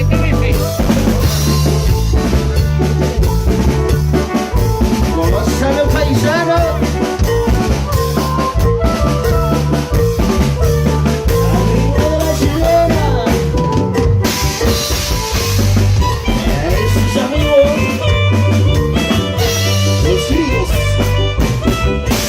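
Band music: a drum kit with snare and bass drum keeps a steady beat under a repeating bass line, with a melody playing over it.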